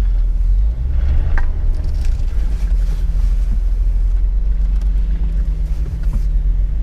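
Off-road 4x4's engine running at low speed while crawling over a muddy, rocky trail, a steady low rumble heard from inside the cab, with a few light knocks from the vehicle body and suspension.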